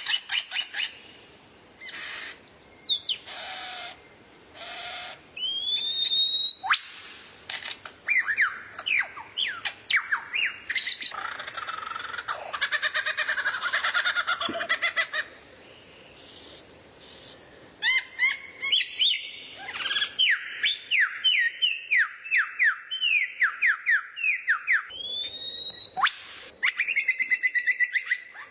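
A songbird singing in varied phrases: fast runs of short downward-sweeping whistled notes, a few long rising whistles, and short harsh buzzy calls, with a brief pause about halfway through.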